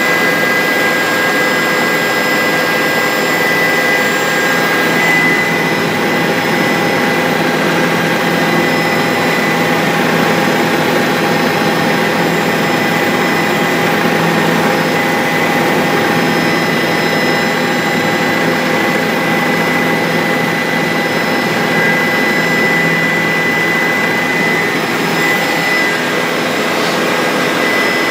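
Bell 407 helicopter in flight: its turboshaft engine and rotors make a steady, unchanging roar with a high turbine whine running through it.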